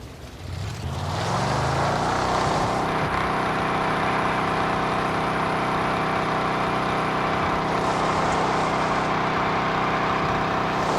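A truck engine whose revs drop off, then climb again over the first couple of seconds and hold at a steady, high drone.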